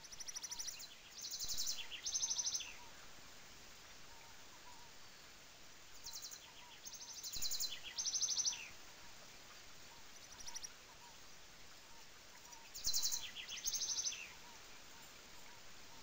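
A songbird sings the same short song three times, about six seconds apart. Each song is a run of fast, high, trilled notes. A steady hiss of falling water runs underneath.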